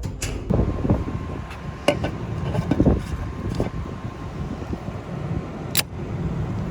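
Low, uneven rumble aboard a ferry under way, with a few sharp clicks.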